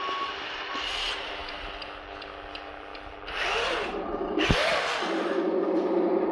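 RC model dump truck: the sound module's reversing beep stops right at the start, then its small electric motors whir and grind in two short spells in the middle over a steady synthetic engine hum. A single click comes between the two spells.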